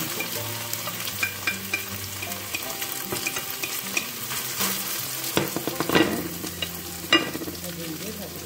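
Food frying in a hot non-stick wok as chopped bamboo shoots are scraped in from a plate and stirred with a utensil. A few sharp knocks of the utensil on the pan come in the second half, the loudest two about a second apart.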